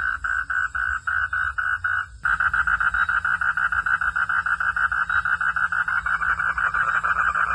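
Frogs calling in a steady train of rapid pulses, about five a second. A little after two seconds in, the sound switches abruptly to faster, louder pulsing.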